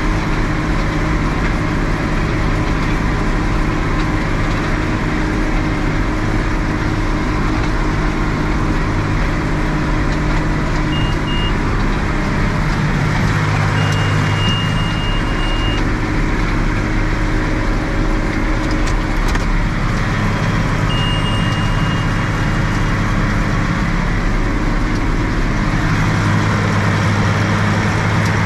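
Tractor engine running steadily, with three high electronic beeps over it, the later two each held for about two seconds.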